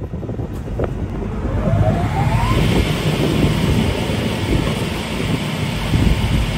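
Winter MRS-155 chain-feed multi-rip saw running. A short rising whine sounds about two seconds in, then the noise grows fuller and brighter and stays steady.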